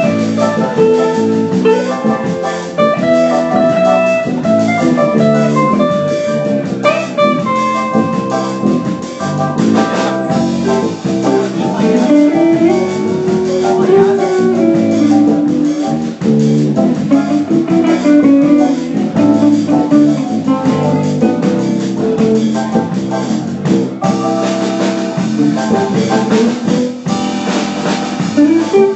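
Instrumental music: a band playing a tune led by guitar, with a drum kit keeping time underneath.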